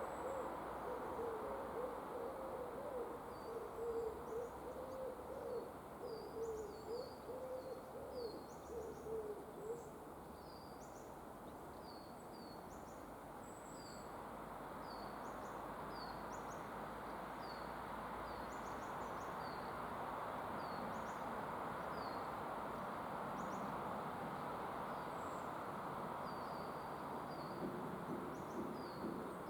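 Woodland birds calling: a low, wavering hoot-like call for about the first ten seconds, with many short, high chirps repeating throughout over a steady hiss.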